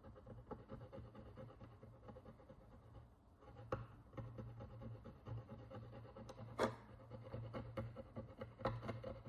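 Hand tool scratching and picking at the hard crust of oxidation and dirt on a Roman bronze coin: a run of small irregular scrapes and ticks, with two sharper clicks about four seconds in and again near seven seconds, over a steady low hum.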